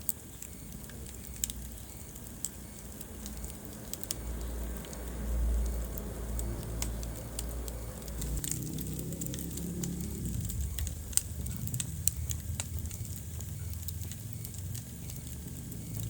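Wood fire in a fireplace crackling, with scattered sharp pops over a low rumble that swells about five seconds in.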